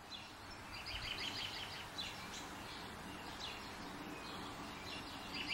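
Small birds chirping, a quick run of chirps about a second in and then scattered calls, over a steady hiss of background noise.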